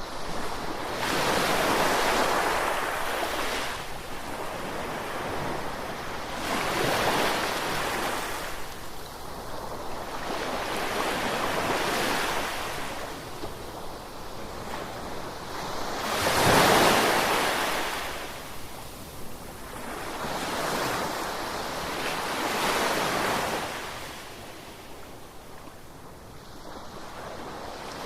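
Ocean surf: waves breaking and washing in, each swell rising and falling away every few seconds, the biggest one about two-thirds of the way through.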